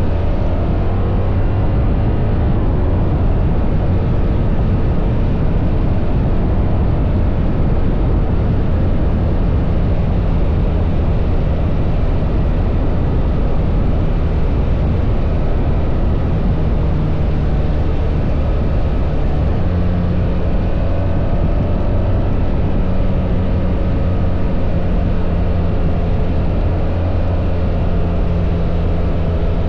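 BMW R1300 GS's boxer-twin engine running steadily while riding, with the engine note changing about two-thirds of the way through.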